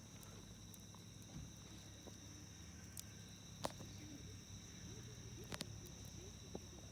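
Wood campfire crackling quietly with a few sharp pops, over a steady high chirring of insects.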